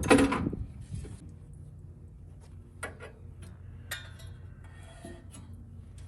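Metal tools and parts clinking and tapping, with a louder clatter at the start followed by scattered light clicks and a few ringing clinks.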